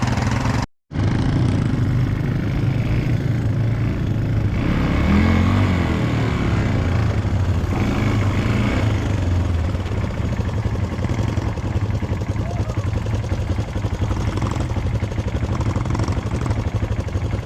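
ATV engine running steadily while riding, its revs wavering briefly about five seconds in. The sound cuts out completely for a moment just under a second in.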